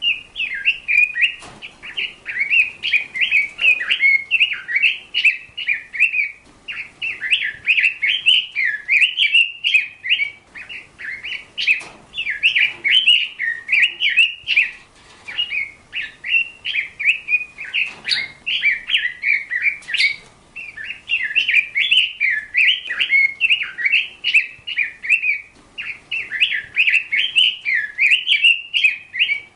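Bird chirping and warbling in quick, high-pitched phrases, almost without a break.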